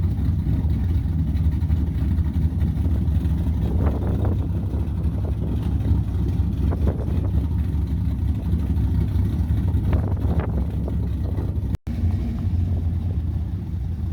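Cammed V8 truck engine running with a deep, steady rumble, with three brief surges in between, about 4, 7 and 10 seconds in. The sound cuts out for an instant near the end.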